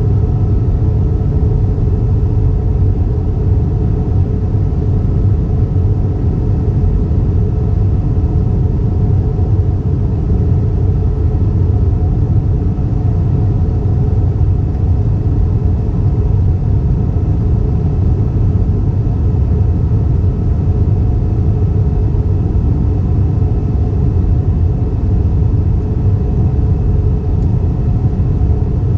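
Steady cabin noise of an Airbus A320 in flight: an even, low rumble of engines and airflow with a faint steady hum on top.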